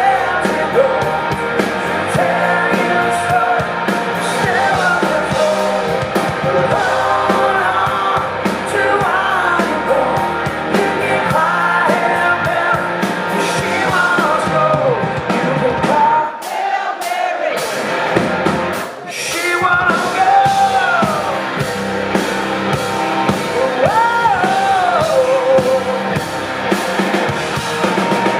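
Rock band playing live, with electric guitar, bass and drums and a lead line bending in pitch over them. The bass and drums drop out for a moment about sixteen seconds in, then the full band comes back.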